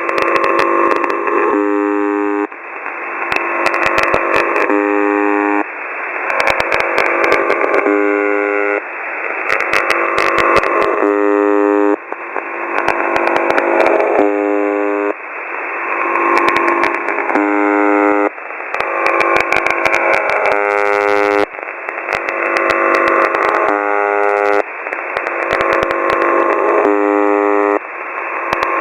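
Shortwave receiver audio from an SDR tuned near UVB-76, 'The Buzzer': a harsh buzz of about a second repeats roughly every three seconds. Between buzzes comes a stretch of swelling hiss with crackles of static, from interference on the frequency.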